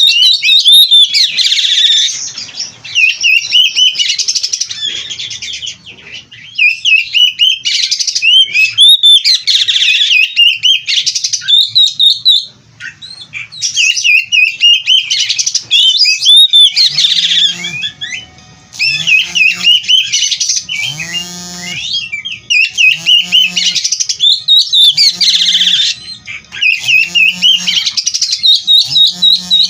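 Oriental magpie-robin (kacer) singing loudly in long, dense warbling phrases packed with mimicked notes. From just past the middle, a lower repeated call sounds about once a second alongside the song.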